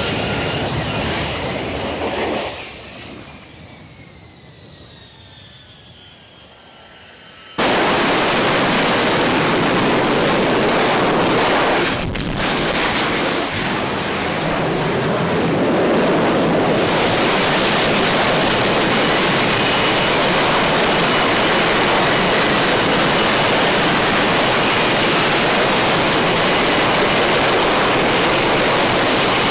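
Jet aircraft noise: a jet passes with its whine falling in pitch and fades away over the first few seconds. After an abrupt cut, a loud, steady jet engine rush takes over and continues.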